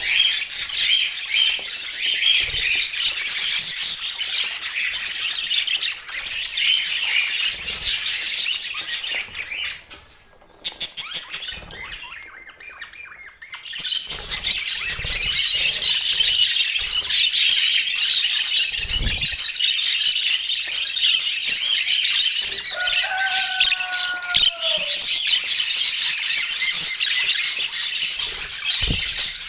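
A flock of budgerigars chattering and warbling continuously. The chatter drops away briefly about ten seconds in.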